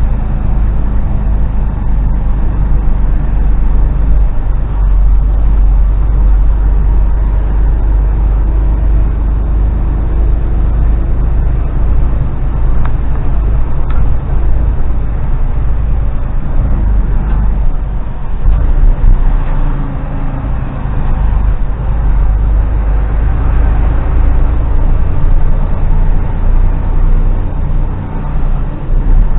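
Diesel engine of a heavily loaded HGV truck running, heard from inside the cab: a steady low rumble.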